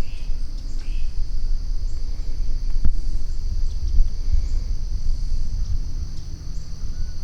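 Steady high-pitched insect chorus trilling without a break, over a low rumble, with a couple of faint bird chirps near the start and a single sharp click about three seconds in.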